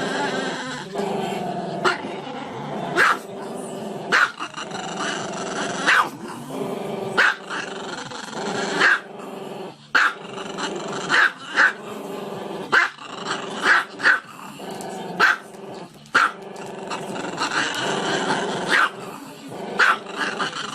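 A dog growling continuously, broken by sharp barks about once a second.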